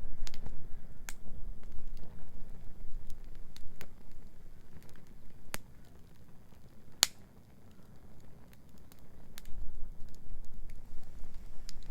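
Wood bonfire crackling, with irregular sharp pops, the loudest about seven seconds in, over a low rumble that fades in the middle and returns near the end.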